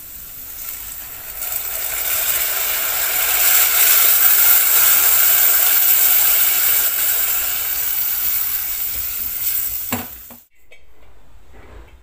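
Food sizzling and crackling in a hot frying pan. It grows louder over the first couple of seconds, holds steady, and stops abruptly about ten seconds in.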